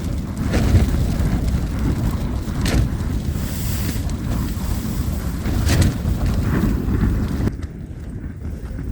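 Gale-force gusts of mountain wind buffeting the microphone with a heavy, rumbling roar and occasional hissing swells. About seven and a half seconds in, the sound turns duller and quieter.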